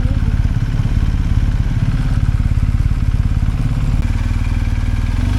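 BMW R 1250 GSA's boxer twin engine running at low revs, its firing pulses plainly heard. About four seconds in the note changes to a steadier, smoother one.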